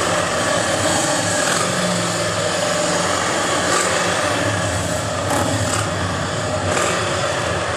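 Harley-Davidson motorcycle engines running close by, steady, with a distant Formula 1 car engine faintly heard through them.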